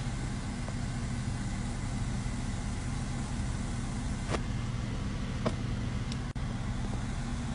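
Car engine idling steadily, heard from inside the cabin, with two faint clicks about halfway through.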